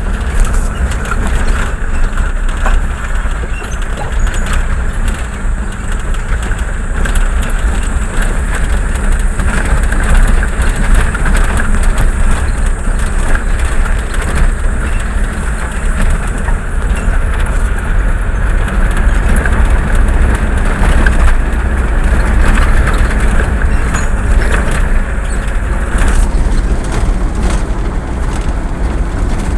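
Steady, loud rumble of a moving road vehicle, engine and road noise heard from on board.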